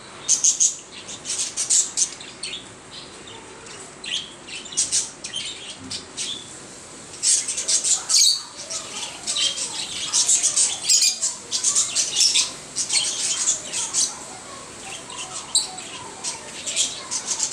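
A flock of lovebirds calling: many short, shrill chirps and squawks coming in quick clusters.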